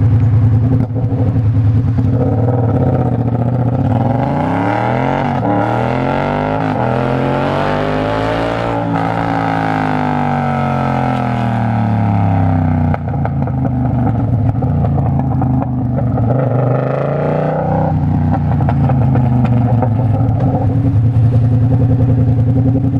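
Naked sport bike's engine pulling away, rising in pitch for several seconds and then easing back off, then running at a steadier pace with another short rise later on.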